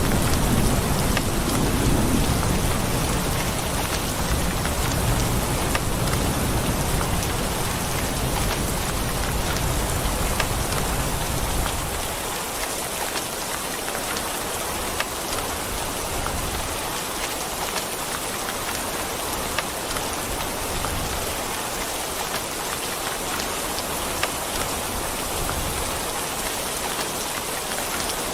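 Steady heavy rain falling, with scattered sharp drop hits. A low rumble of thunder dies away about twelve seconds in.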